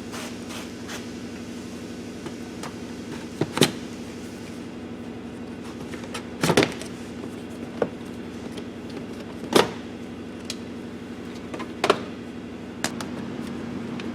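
Clicks and knocks of interior trim and parts being handled while getting at the truck's tire pressure sensor module, about five sharp ones a few seconds apart, over a steady low hum.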